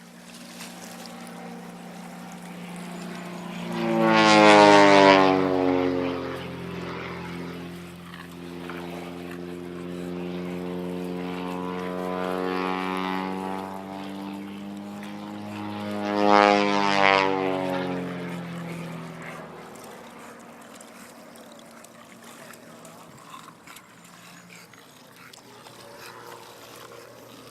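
Piston-engined propeller warbirds making low passes. The engine note swells to a loud peak and then drops in pitch as each aircraft goes by: first about four seconds in, again more weakly around twelve seconds, and loudly around sixteen seconds. The sound fades away after about twenty seconds.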